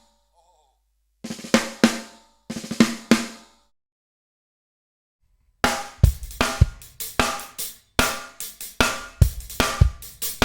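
A 1967 Ludwig LM400 Supraphonic 14x5 aluminium-shell snare drum at a high tuning, struck in two short bursts of strokes with a bright ring. After a pause of about two seconds a drum-kit beat starts, with bass drum, snare and hi-hat or cymbals.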